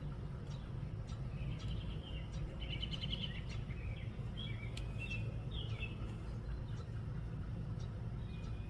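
Wind rumbling steadily on the microphone, with small birds chirping and twittering over it; a short rapid trill comes about three seconds in.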